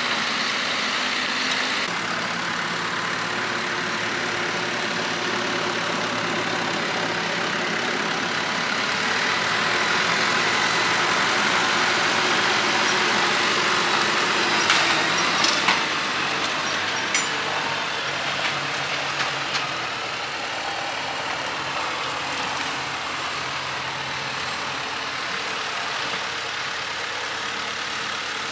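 Heavy diesel engine running steadily, swelling slightly for a few seconds, with a few sharp knocks about halfway through.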